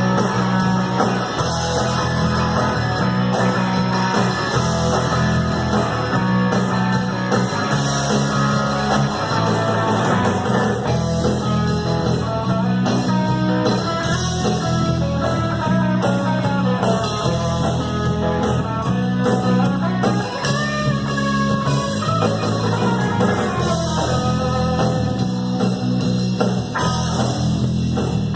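Rock band playing an instrumental break, with a guitar carrying the melody over the band and no vocals.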